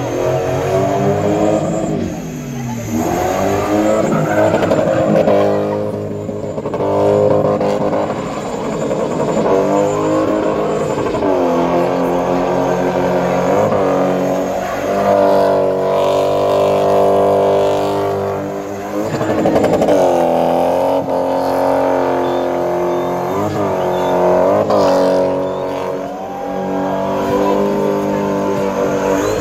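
Car engine held at high revs while the car spins donuts with its wheels spinning, the revs swelling and dropping again and again, with a few quick blips of the throttle near the end.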